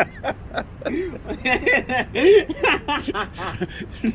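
People's voices talking and chuckling, with a few short clicks or knocks.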